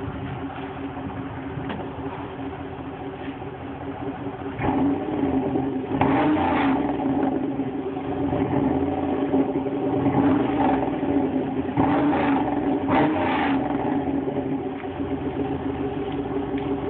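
Pontiac Grand Prix GXP's 5.3-liter LS4 V8 with its exhaust resonator removed, idling and then revved several times in short blips before settling back to idle near the end.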